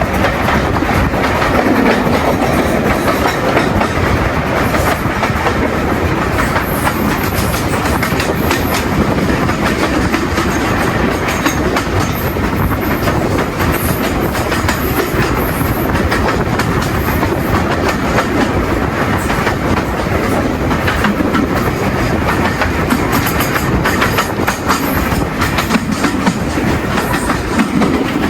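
A steam-hauled train running along the track, heard from aboard: a steady loud rumble with the wheels clicking over the rail joints.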